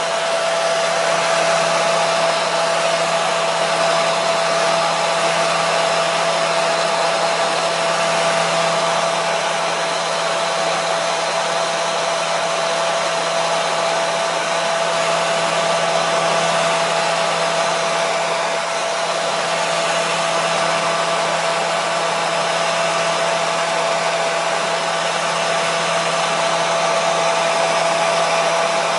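Electric hair dryer running steadily: an even rush of air with a steady whine from the fan motor and a low hum beneath it.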